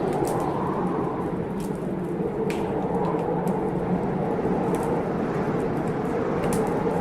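Heavy blizzard wind blowing steadily outside a window, with a wood fire crackling in sharp, scattered pops over it.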